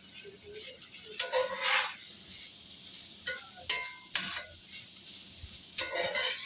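Meat sizzling steadily in hot oil in a pan as it browns. A few short scrapes and clinks of a utensil stirring against the pan.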